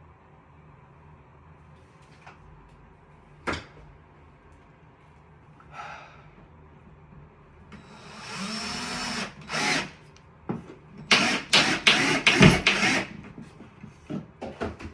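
Power drill driving screws: a sharp knock first, then the motor spins up and runs for about a second, a short pull of the trigger, and a string of short bursts near the end.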